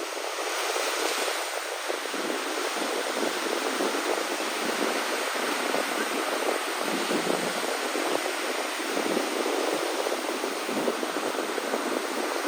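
Sea waves on a shore: a steady rushing surf noise with no individual breakers standing out.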